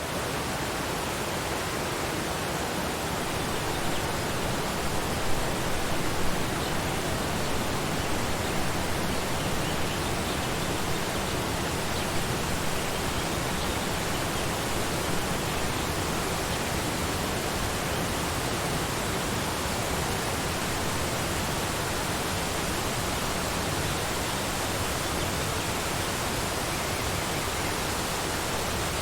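Waterfall: a steady rush of falling water, with a few brief louder surges about five to six seconds in.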